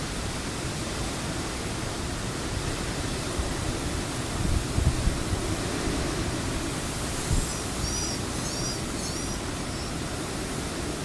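Hurricane wind and rain: a steady rushing noise, with gusts buffeting the microphone in low rumbles a little under halfway through. A few short high chirps sound over it past the middle.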